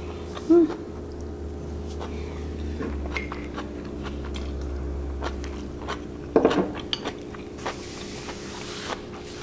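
Close-miked chewing of a large mouthful of glass noodles and vegetables, with small clicks of chopsticks and utensils. About six and a half seconds in comes a brief hummed 'mm' from the eater, and a steady low hum runs underneath.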